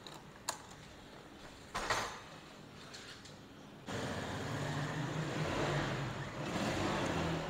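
Honda CD70 Dream's 70cc single-cylinder four-stroke engine starting after a couple of clicks and a knock, catching about four seconds in and then idling steadily.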